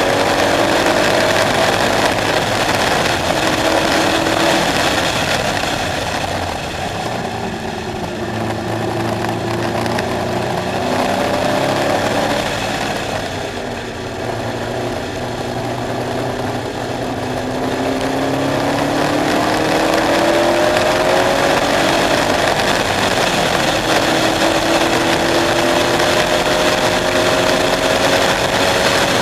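KTM X-Bow engine under hard driving, its pitch climbing through the revs and dropping back at each gear change, with a quieter off-throttle stretch a third of the way in before it pulls up through the gears again.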